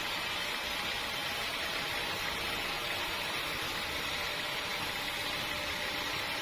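Sawmill machinery running: a steady, even mechanical noise with a strong hiss and no change in pitch or level.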